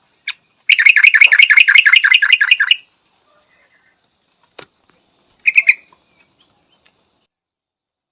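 Yellow-vented bulbul calling: a rapid run of about fifteen short, even notes, roughly seven a second, lasting about two seconds. A short two-note call follows a few seconds later.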